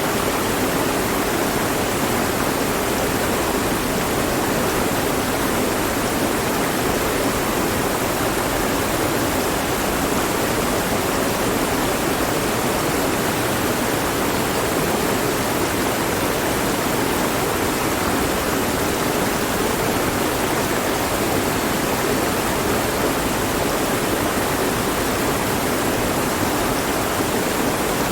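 Mountain stream flowing over rocks: a steady, even rush of water with no change in level.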